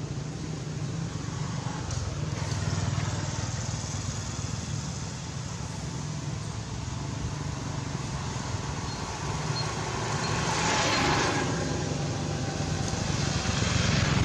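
Steady motor-vehicle traffic: a low engine hum throughout, with a louder vehicle passing and swelling up about ten seconds in.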